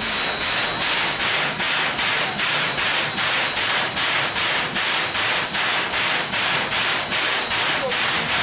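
Steam locomotive chuffing steadily, about three exhaust beats a second, each beat a sharp puff of steam from the chimney.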